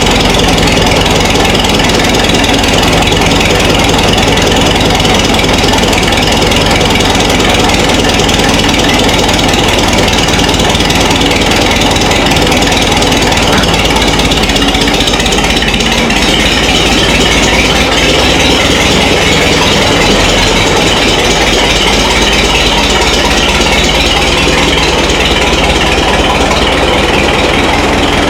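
Minneapolis-Moline tractor engine running loudly and steadily, just caught after a slow start on choke.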